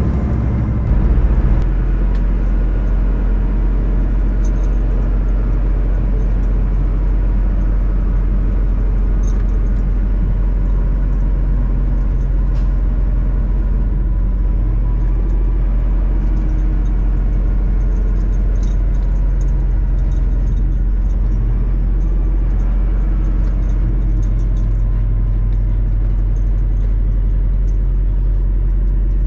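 Steady low drone of a semi truck's engine and road noise heard from inside the cab while driving, with faint scattered rattles and ticks.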